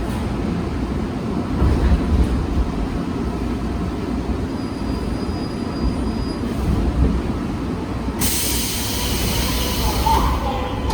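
Seoul Metro Line 3 3000-series train with GEC chopper control running along the track with a steady low rumble. A loud hiss starts sharply about eight seconds in and stops a couple of seconds later.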